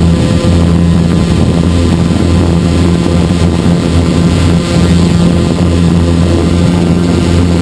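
Hexacopter's six electric motors and propellers running steadily in flight, heard loud and close from a camera mounted on the craft, with a low hum whose pitch wavers slightly.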